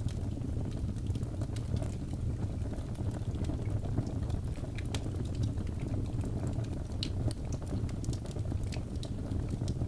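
Fire in a fireplace crackling: a steady low rumble with frequent small, irregular pops and snaps.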